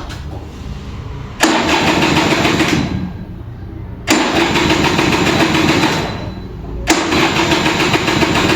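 Kinetic Honda two-stroke scooter being cranked on its starter in three bursts of about two seconds each, with short pauses between. The cold engine does not catch: a hard-start struggle.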